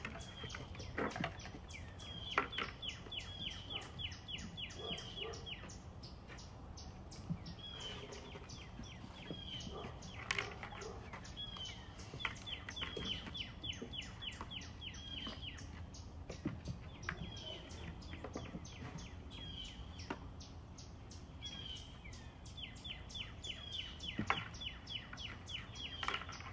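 A small bird chirping in quick runs of short, high, falling chirps, about six a second, the runs coming in bursts every few seconds, with a few sharp clicks among them.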